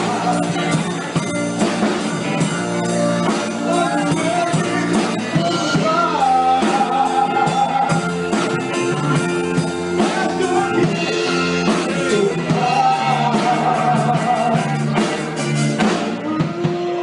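Live soul music: a band with drums playing under a singer's held, sliding notes.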